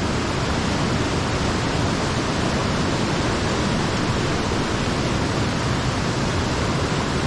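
Small mountain stream rushing over rocks, a steady, even wash of water noise, running high after recent rain.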